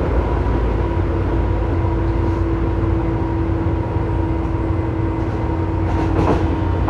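Tobu 9000 series electric train running, heard inside the car above its armature chopper controller: a steady whining tone from the chopper, the car's known abnormal chopper noise, over the rumble of the wheels on the rails, with a brief knock about six seconds in.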